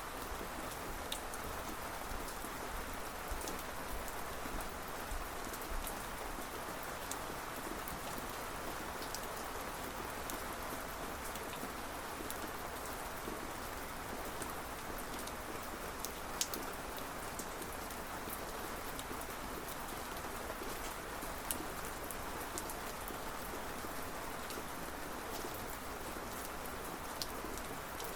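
Steady rain falling, with individual drops ticking sharply here and there on a surface close by.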